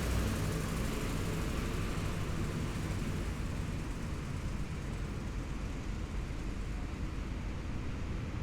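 Heavy military vehicles' engines running low and steady in a passing column, the louder high end of a vehicle that has just gone by fading away over the first few seconds.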